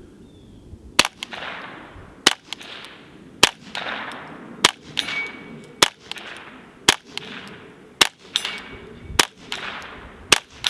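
Integrally suppressed Ruger 10/22 rifle firing subsonic .22 rounds: nine quiet, sharp cracks at a slow, even pace, about one every second and a quarter, each trailed by a brief echo.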